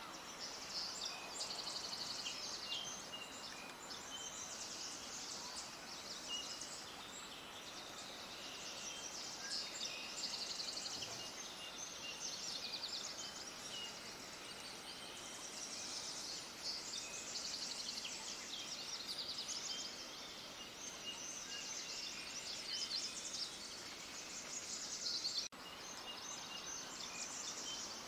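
Many small birds chirping together, fast high twittering calls overlapping over a steady faint hiss, with a momentary dropout about twenty-five seconds in.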